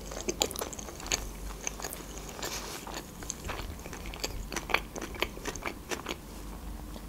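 A mouthful of sushi roll being chewed with the mouth closed: many small, irregular mouth clicks and smacks.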